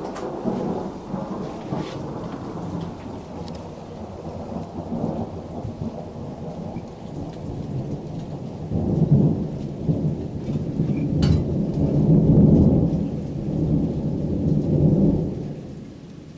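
Deep rolling thunder rumbling, swelling in several surges to its loudest in the second half before dying away near the end, with rain falling.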